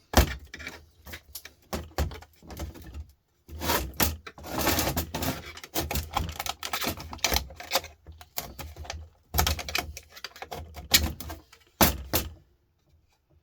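Rapid metallic clicking and knocking in bursts from prying and striking at a desktop computer power supply's metal casing, which is stuck fast and will not come apart.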